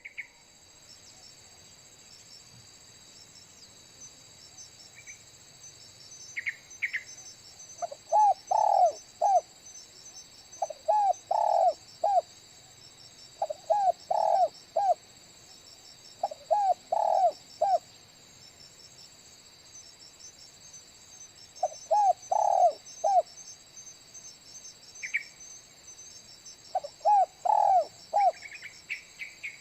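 Spotted dove cooing: six short phrases of three or four low coo notes a few seconds apart, starting about eight seconds in. A steady high insect trill, like crickets, runs underneath.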